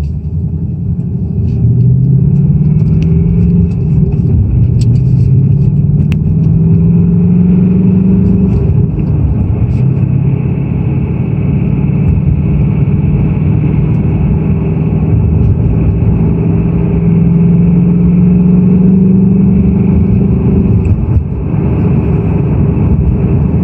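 2018 Ford Mustang GT's 5.0-litre Coyote V8 running, its pitch climbing slowly and dropping back three times: about 4 seconds in, about 8 seconds in, and near the end. Light ticks come through in the first part. This is the cold-start engine rattle that the owner takes for piston slap, not the high-pressure fuel pump.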